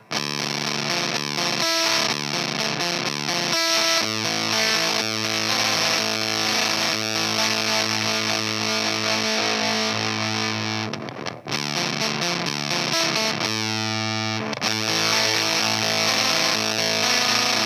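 Baritone electric guitar played through an EarthQuaker Devices Erupter fuzz pedal with its control turned all the way down: heavily fuzzed sustained chords and riffs, with two short breaks partway through.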